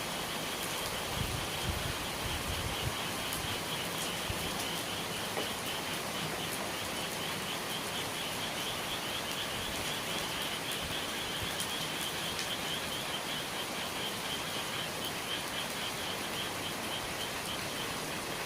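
Steady rain falling on and dripping from the eaves, with a high, rapidly pulsing chirping that grows louder toward the middle and then fades a little.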